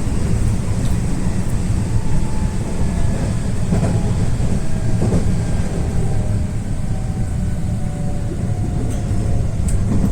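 Train running: a steady, loud rumble, with faint thin whining tones in the last few seconds.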